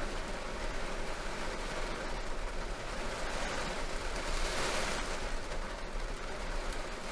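Heavy rain drumming steadily on a car's roof, a dense patter that swells briefly a little past halfway.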